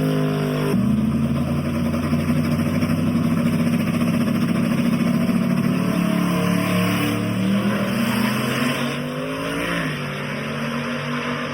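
A race car engine running hard at high revs. Its pitch drops sharply about a second in, holds steady for several seconds, climbs gradually, then drops again near the end, like gear changes and a lift.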